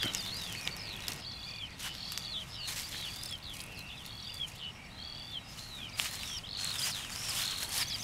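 Birds singing: a continuous stream of short, high chirps and whistles, with a few soft rustles and clicks.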